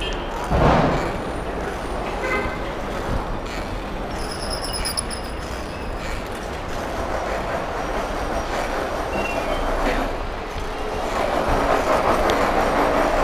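Street traffic noise heard from a moving bicycle, steady throughout and growing louder near the end as a vehicle passes. A brief high squeal sounds about four seconds in.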